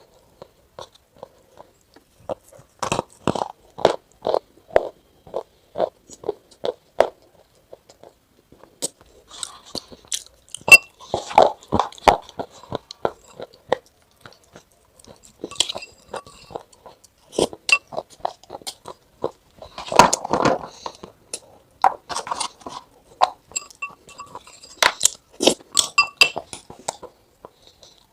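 Crunching and crackling in irregular clusters of sharp clicks, with short quiet gaps between.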